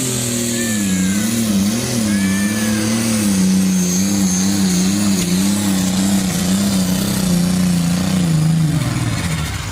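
A truck or tractor engine in a pulling competition at full throttle under heavy load, its pitch wavering up and down as it drags the sled, then falling away near the end as the pull ends.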